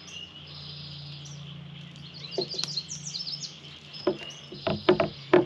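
Wild birds chirping, a quick run of high notes in the middle, over a steady low hum. Several sharp knocks sound near the end, the loudest just before it stops.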